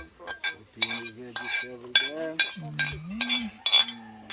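Metal spoon stirring a cooking pot of stew, knocking and scraping against the pot about ten times with a short metallic ring on each knock. A voice wavers in the background.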